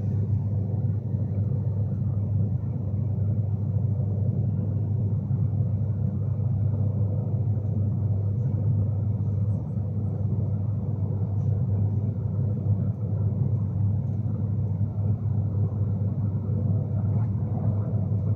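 Steady low rumble inside the passenger saloon of a moving Class 390 Pendolino electric train: the running noise of the train on the rails.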